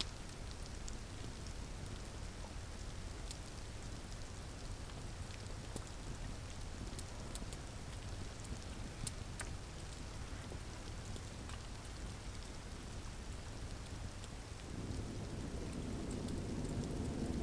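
Wood campfire crackling, with scattered sharp pops and ticks over a steady low rumble. About fifteen seconds in, a louder rushing noise comes in and grows.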